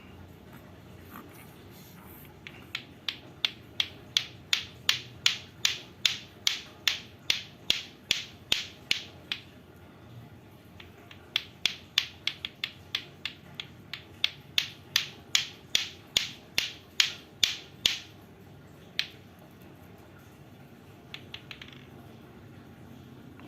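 Lato-lato clacker toy, two hard plastic balls on strings knocking together in sharp, regular clacks, about three a second. It runs in two long bursts with a short pause between, then gives one lone clack and a brief quick flurry near the end.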